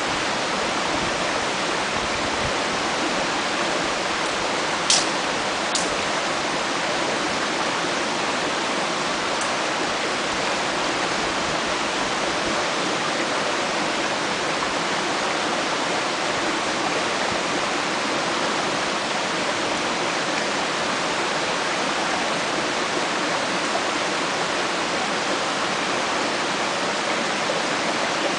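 Steady rush of a mountain stream flowing through a gorge. Two sharp snaps from the campfire come about five seconds in.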